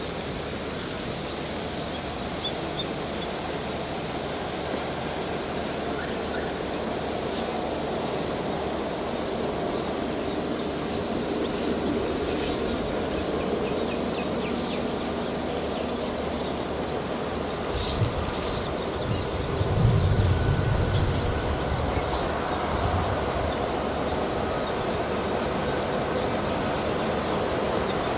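A train approaching on the track, its rumble slowly growing louder, with a sharp knock and a heavier low rumble about two-thirds of the way through.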